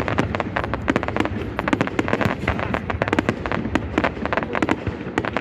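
Fireworks display at full intensity: a dense, rapid crackle of many sharp bangs and pops, several a second, over a continuous low rumble of bursting shells.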